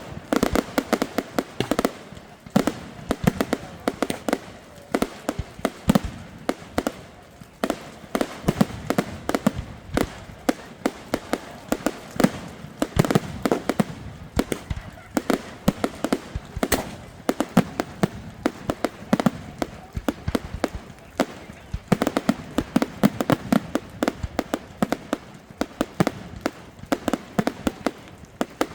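Fireworks going off: a rapid, continuous run of sharp bangs and crackles, several a second, with louder clusters every few seconds.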